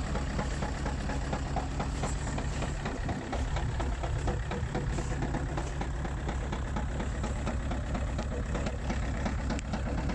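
Saab 9-3 1.9 TiD four-cylinder diesel idling steadily with diesel clatter, still warming up after a cold start at around freezing.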